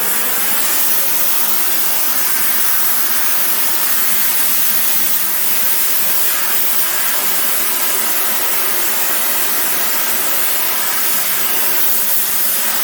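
Oxy-fuel gas torch burning with a loud, steady hiss as it heats a steel tube to soften it for bending.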